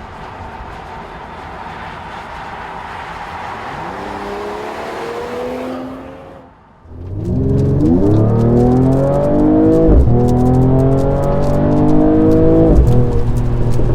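Mercedes-AMG CLS53's turbocharged inline-six accelerating hard. After a stretch of road noise, the engine note climbs through the revs. Two upshifts, about ten seconds in and near the end, each cut the pitch back before it rises again, with exhaust pops and crackles over the top.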